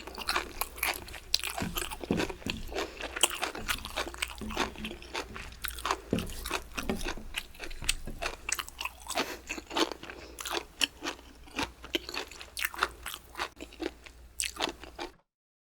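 Close-miked chewing of crunchy bamboo shoots: rapid, irregular wet crunches and bites over a steady low microphone hum, cutting off abruptly just before the end.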